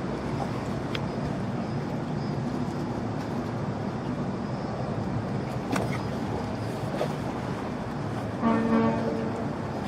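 Steady low mechanical rumble, like engines, with a short horn toot of a little under a second about eight and a half seconds in.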